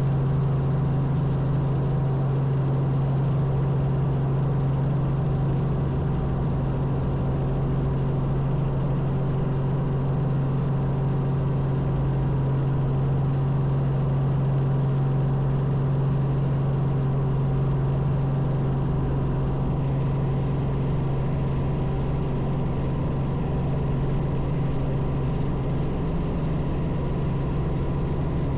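Robinson R44 helicopter's piston engine and rotors running, a steady, even drone with a strong low hum that holds unchanged throughout.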